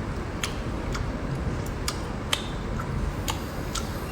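Sharp, irregular clicks and cracks of boiled shellfish and crustacean shells being broken open while eating, about half a dozen over a steady low rumble.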